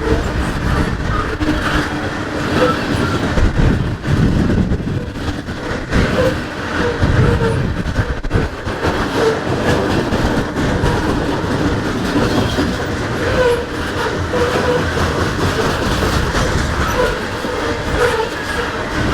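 Norfolk Southern freight train's cars rolling past: a steady rumble of steel wheels on the rails.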